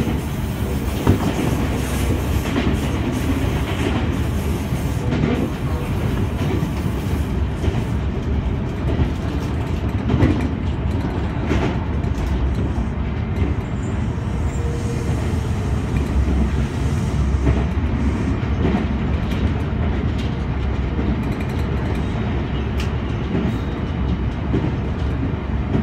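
Senboku Rapid Railway 7020 series electric train running, heard from inside the driver's cab: a steady rumble of wheels on rail with scattered clicks as the wheels pass over rail joints.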